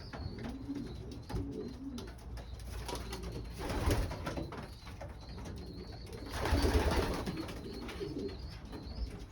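Racing pigeons cooing in a loft, low wavering calls overlapping throughout, with two louder rustling bursts about four and seven seconds in.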